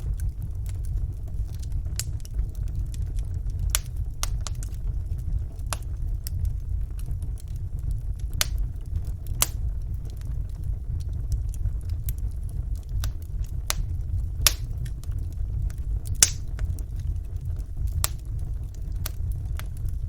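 Wood fire burning in a fireplace: a steady low rumble of the flames with sharp, irregular crackles and pops, one louder pop about sixteen seconds in.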